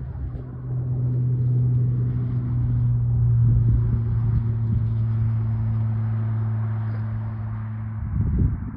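A steady, low motor hum at an even pitch, swelling slightly in the middle and dropping away near the end.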